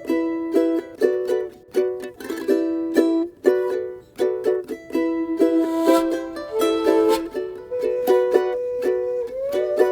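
Acoustic string instrument strummed in a steady rhythm, playing repeated chords as the introduction to a chant.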